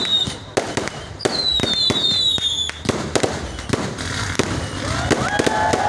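Fireworks going off: a rapid, irregular series of sharp bangs and crackles, with falling whistles from whistling fireworks between about one and three seconds in.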